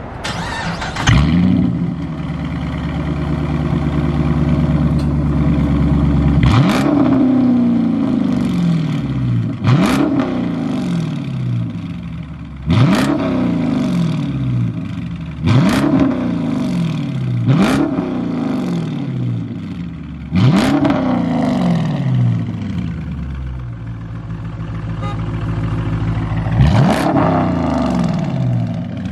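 Dodge Charger R/T's 5.7-litre Hemi V8 revved in place through an exhaust with the resonators deleted and straight pipe to the mufflers. One rev about a second in is held for several seconds, then about seven quick throttle blips follow, each climbing and dropping back to idle.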